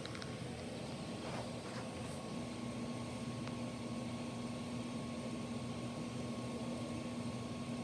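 Steady mechanical hum and hiss, with a low steady tone joining about two seconds in.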